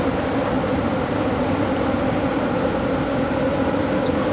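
Steady running noise of a moving passenger train heard from inside the coach: an even rumble with a constant low hum.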